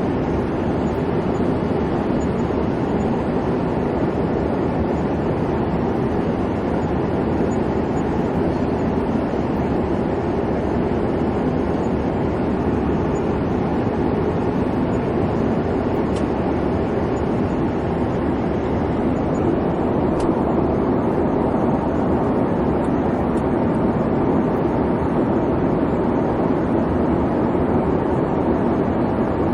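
Airliner cabin noise in flight: a steady, even rumble of engine and airflow, strongest in the low and middle range, with no change throughout.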